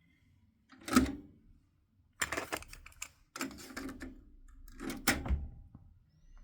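Mechanical clicks and clunks of a Yamaha KX-493 cassette deck being operated by hand, with buttons and the tape mechanism clicking. There is one sharp clunk about a second in, then several quick clusters of clicks.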